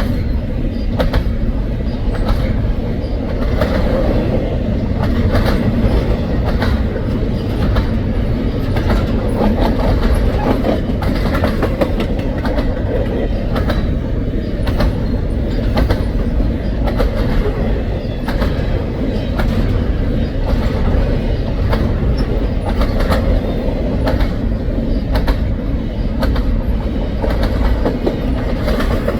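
Double-stack freight train rolling steadily past, a continuous low rumble with wheels clicking and knocking over the rail joints.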